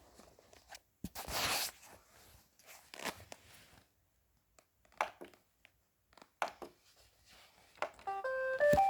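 Scattered knocks and a brief rustling burst, then, near the end, an iRobot Roomba 880 robot vacuum plays its short electronic tune of stepped tones, the chime it gives on being started.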